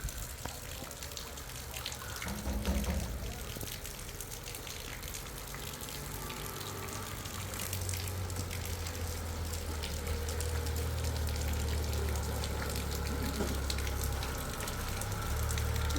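Heavy rain falling, a steady rushing noise dotted with many small drop hits. A low, steady rumble builds from about halfway through.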